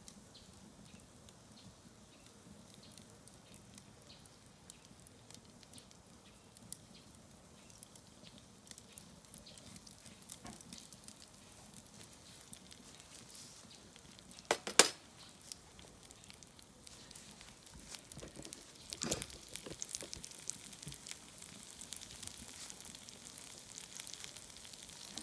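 Faint crackling of a wood fire with scattered small pops, and food starting to sizzle in a hot pan, the sizzle growing louder in the second half. A sharp knock sounds about 15 seconds in, with a weaker one a few seconds later.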